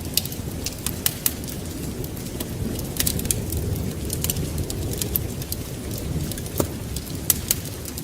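Wood fire crackling, with irregular sharp pops, over a steady low rumble of rain and wind.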